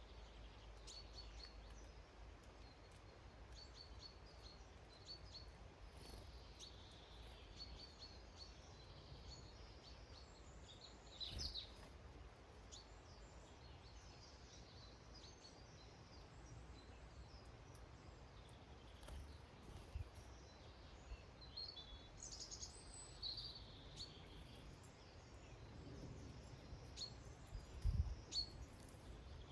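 Small garden songbirds calling faintly with short, high chirps, repeated on and off over a quiet outdoor background. A couple of soft low knocks break in, the loudest near the end.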